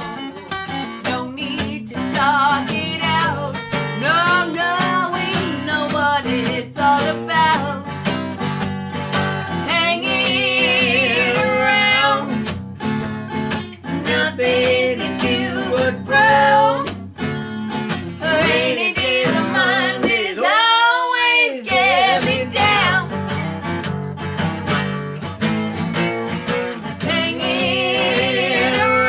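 Acoustic guitar strumming chords under a singing voice that holds long notes with vibrato. About twenty seconds in, the guitar briefly drops out under a sustained sung note.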